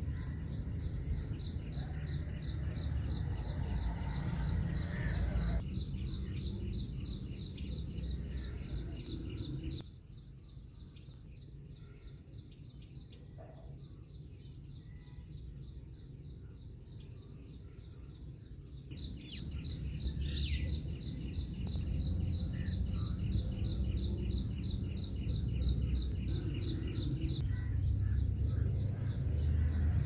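Small bird chirping steadily in a rapid, even series of short high notes, about five a second, over a low rumble of wind on the microphone. Both quieten sharply for about nine seconds in the middle, then return.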